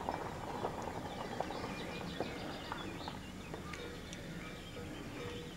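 Wild birds chirping and singing around the pond, many short rising and falling notes, over a steady low rumble. A faint steady hum comes in about two-thirds of the way through.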